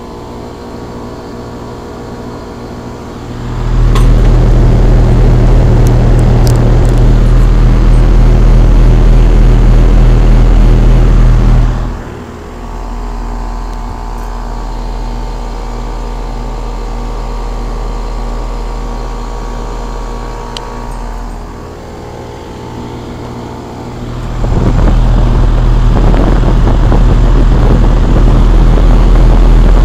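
2001 Trane XE1000 Weathertron heat pump outdoor unit running with a steady hum, its coil frosted over while it waits to defrost. Wind gusts on the microphone come in suddenly about four seconds in and again near the end, loud enough to cover the hum.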